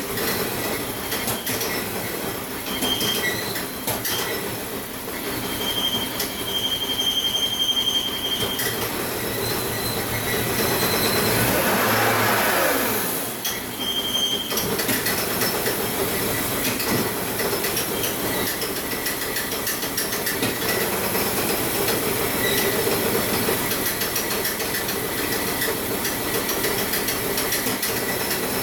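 Volvo 850 T5's turbocharged inline five-cylinder engine running at idle with the hood open, a steady mechanical noise and hiss. Short high whistles come and go, and a louder swell passes about twelve seconds in.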